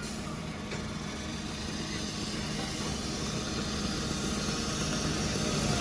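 Diesel engine of a fire engine running steadily, its hum growing slightly louder toward the end.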